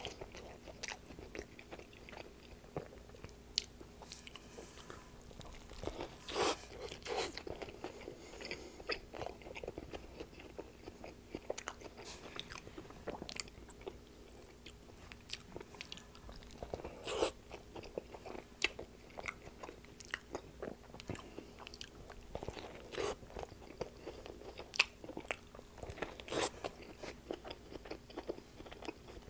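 A person biting into and chewing a homemade Italian BMT sub sandwich with shredded lettuce, cold cuts and tomato on a soft roll: irregular close-miked crunches and mouth clicks, with a few louder bites along the way.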